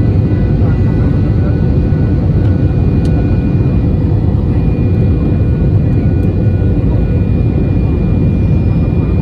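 Jet airliner's engines running: a steady, heavy rumble with thin whining tones above it.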